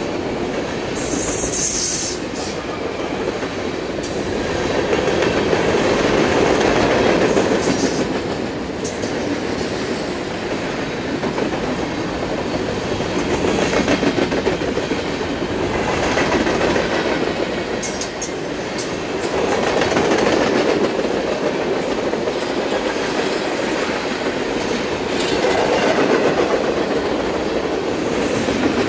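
Freight train rolling past, its cars' wheels clattering over the rail joints, the sound swelling and easing every six seconds or so. A brief high-pitched squeal near the start.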